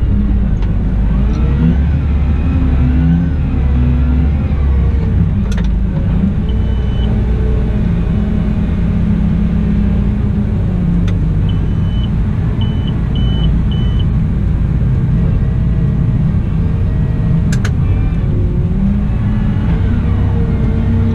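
Cat 972M XE wheel loader's diesel engine running under working load, its pitch rising and falling as the throttle changes. A short high beep comes about six seconds in, then four more in quick succession about halfway through, with a few sharp clicks.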